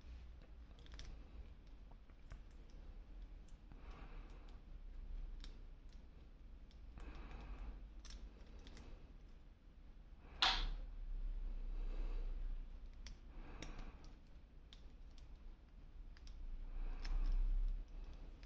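Plastic toy packaging and action-figure parts being handled: scattered light clicks and rustles, with one sharp snap about ten seconds in.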